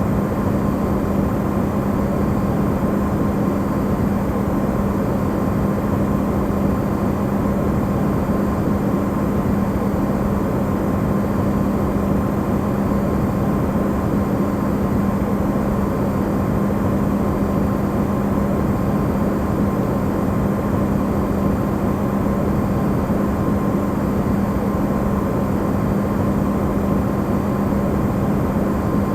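Amplified recording of an Electrolux refrigerator running: a steady, unchanging hum with a strong low tone, a fainter higher tone and a bed of noise beneath.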